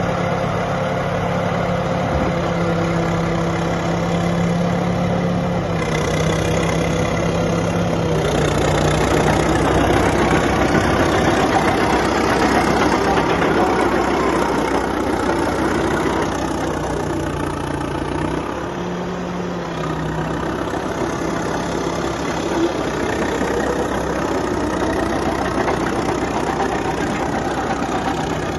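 Caterpillar D7E crawler dozer's diesel engine running, its pitch stepping up and down a few times, with a louder, noisier stretch in the middle.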